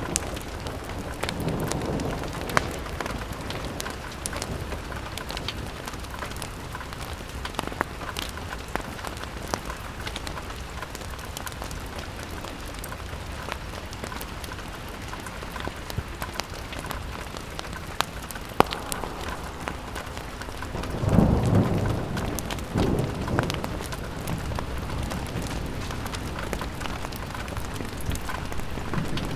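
Steady rain falling on a window pane, with scattered sharp crackles from a fireplace. About two-thirds of the way through, a low rumble swells twice and fades.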